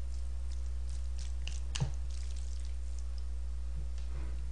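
Close-up eating sounds of a person chewing a mouthful of jajangmyeon noodles: a few short wet clicks and squishes over a steady low hum.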